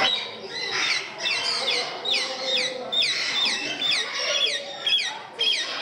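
Parrots chirping together in a dense chatter of short, high, falling chirps, several a second.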